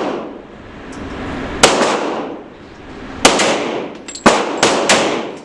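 Five gunshots at a shooting range: two spaced well apart, then three in quicker succession near the end, each followed by a short echoing tail.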